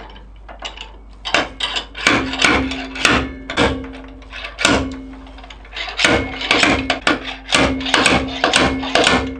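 Slide hammer on a bearing puller striking repeatedly to pull a ball bearing out of a quad's gearbox housing: about fifteen sharp metal knocks, roughly two a second with a short pause midway, each ringing briefly. The bearing is stuck fast and does not come free.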